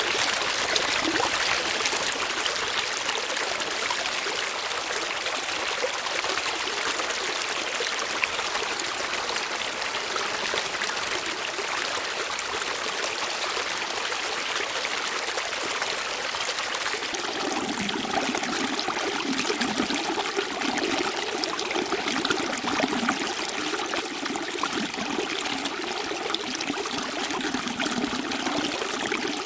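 Flowing water running and trickling in a steady rush. A little over halfway through, a deeper gurgling joins in.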